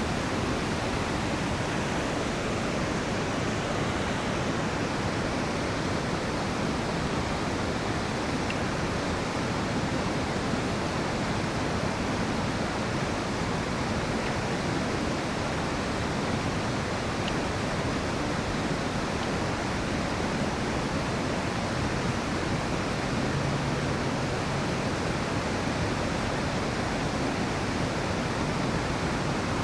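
Rushing river water: a steady, unbroken rush that does not change in loudness.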